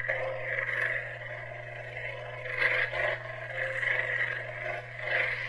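A Kylo Ren sound font playing from a lightsaber's speaker: a steady low electric hum under an unstable, crackling fizz that swells now and then.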